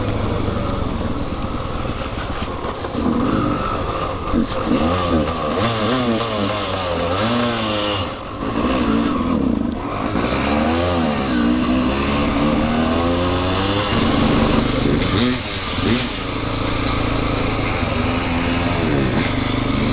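Dirt bike engine revving up and down while riding off-road, its pitch rising and falling over and over as the throttle is opened and closed.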